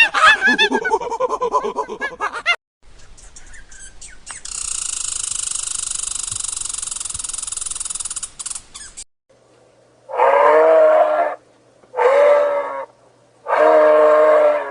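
A run of animal calls: quick, rapidly repeated pitched cries at the start, then a steady high buzz for about four seconds, then three drawn-out calls of about a second each.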